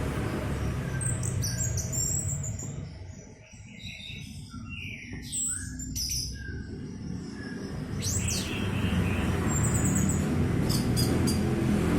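Orange-headed thrush (anis merah) singing a varied run of short chirps, whistled notes and quick rising and falling sweeps, over a steady low rumble that dies down briefly in the middle.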